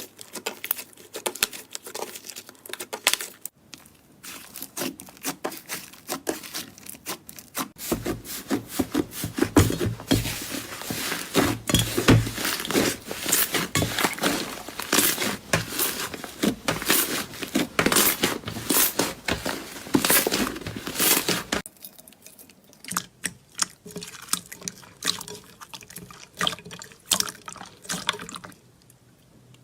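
Slime being squished and worked, a dense run of wet clicks and squelches. It gets busier and louder about a quarter of the way in, then thins out to scattered clicks for the last quarter.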